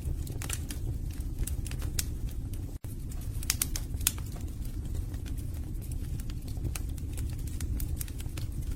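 Wood fire burning in a fireplace: a steady low rumble of flames with irregular sharp crackles and pops of burning logs. The sound cuts out for an instant about three seconds in.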